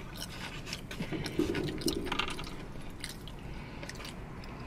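Close-up eating sounds: wet chewing with many small mouth clicks, louder for a moment between about one and two seconds in.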